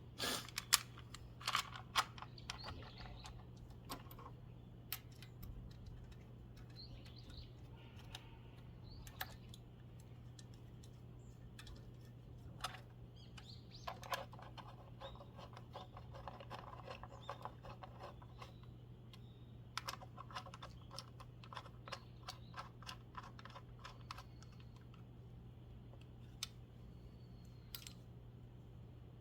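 Faint clicks and taps of hand tools at work, with a few runs of rapid clicking, over a steady low hum.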